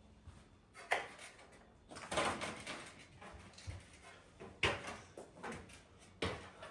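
A few sharp knocks and clatters from hands-on work, about one a second or two apart, with a longer scraping rustle about two seconds in.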